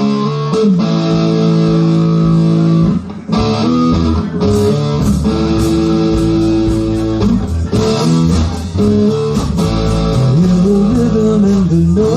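Live rock band playing the instrumental intro of a song: electric guitar chords ringing over bass guitar and drums, with a brief break about three seconds in.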